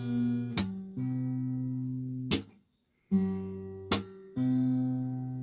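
Acoustic guitar strumming chords, each left to ring before the next strum, with a brief break about two and a half seconds in.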